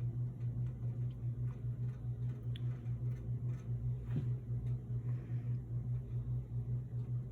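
A steady low hum that pulses in loudness several times a second, with faint scattered clicks and soft rustles over it, one a little louder about four seconds in.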